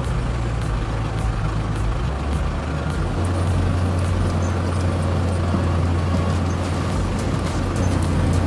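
Engine of a heavy construction machine running steadily, its low hum growing louder about three seconds in.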